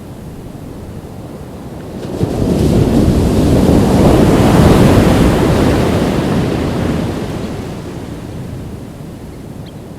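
Ocean waves breaking on a beach: one wave builds about two seconds in, crashes at its loudest around the middle, then washes back and fades slowly. Wind rushes on the microphone.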